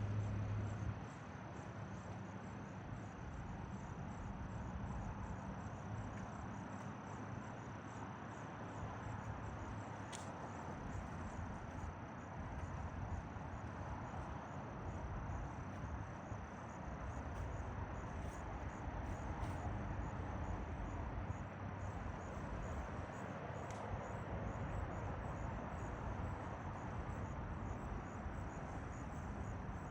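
Insects trilling steadily in a high, fast-pulsing drone over constant background noise. A low hum stops about a second in.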